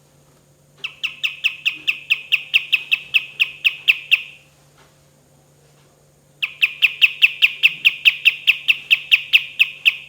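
Kapas tembak bird singing two long rolls of rapid, evenly repeated notes, about five a second, each note a quick downward slur; each roll lasts about three and a half seconds, with a pause of about two seconds between them.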